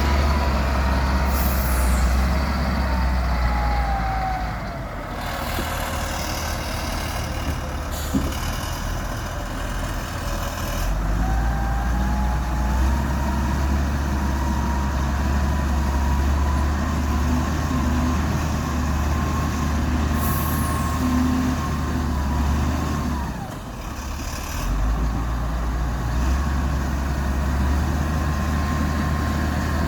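Heavy diesel machinery running steadily at a sand-loading site, with a wavering whine over a deep rumble. There are two short high hisses, one near the start and one about 20 seconds in.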